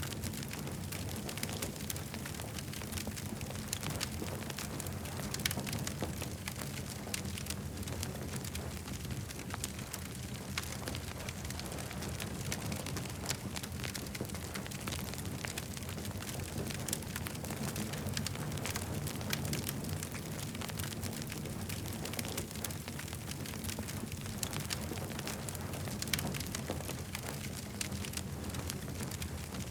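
Campfire burning and crackling, a dense, constant patter of small pops over a steady low rumble.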